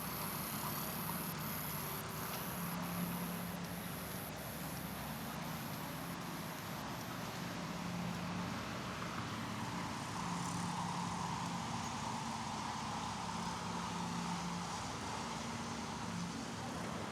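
Steady road traffic noise, the engines and tyres of cars passing without a break.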